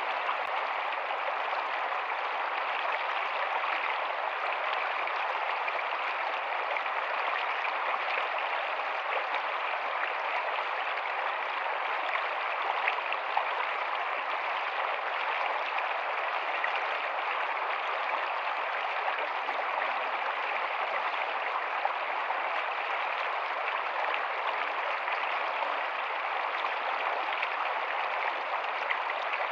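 Rocky stream running steadily over rocks, a continuous even rush of flowing water.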